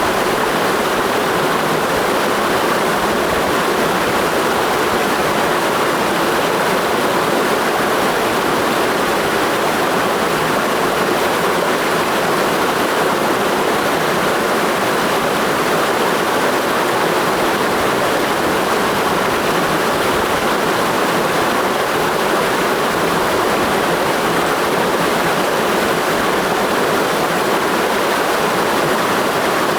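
Ichinokurasawa mountain stream flowing in a steady, unbroken rush of water.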